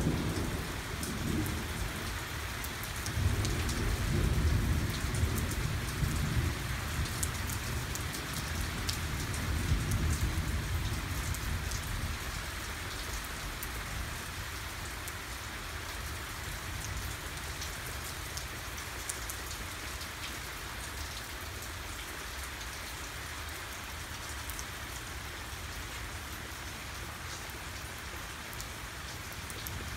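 Heavy rain falling steadily on pavement and splashing into a puddle: an even hiss with many sharp drip ticks. An uneven low rumble sits underneath for the first twelve seconds or so and then fades out.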